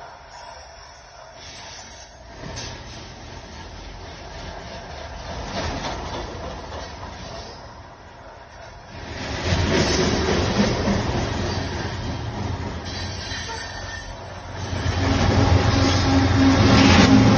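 Loaded coal hopper cars of a Union Pacific train rolling past, their wheels squealing on the rails. Near the end a trailing diesel-electric locomotive passes, its engine adding a steady low drone and making it the loudest part.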